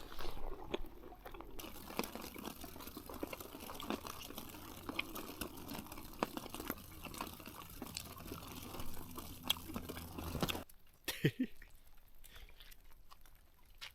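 A person chewing and crunching food close to the microphone, with small irregular crunches over a steady background hiss. The sound cuts off suddenly about ten and a half seconds in.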